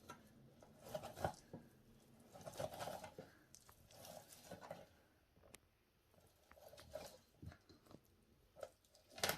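Boiled potatoes being shredded on a hand grater: faint, irregular scraping strokes with a short lull in the middle.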